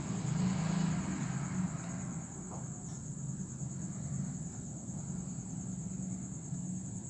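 Steady high-pitched insect chorus over a low, steady motor hum that is louder for the first two seconds.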